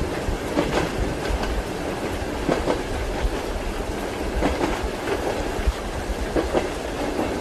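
Railway carriage rolling along with a steady low rumble, its wheels clacking over the rail joints in irregular knocks, several of them in close pairs.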